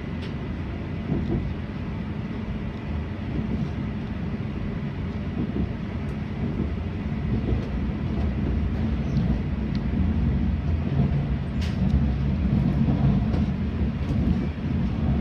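485-series electric multiple unit running on the rails, heard from the cab: a steady low rumble of wheels and running gear that grows somewhat louder in the second half, with a faint click near the end.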